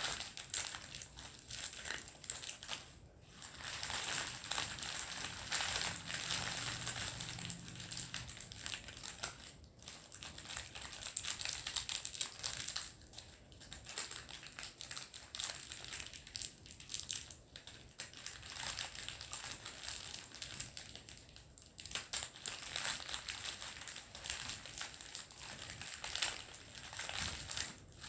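Candy wrapper crinkling and crumpling in the hands, a continuous crackle with a few brief pauses.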